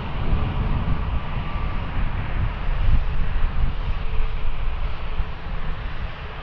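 Airbus A320neo jet airliner's engines running, a steady low rumble that swells and dips, with a rushing hiss above it.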